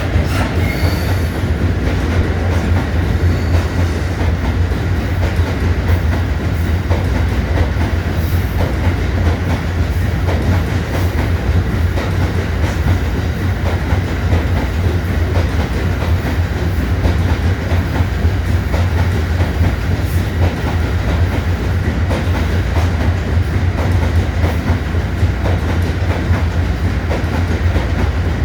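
Train running on the rails: a steady low rumble with wheels clattering over the rail joints.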